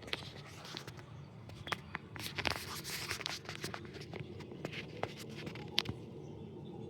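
Dry, scratchy rustling of catnip leaves being pawed and nosed by a cat, with a few sharp clicks scattered through and a denser burst of rustling about two to three seconds in.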